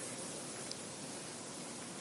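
Soft wind blowing across a field, a steady rustling hiss. A faint short chirp sounds once, under a second in.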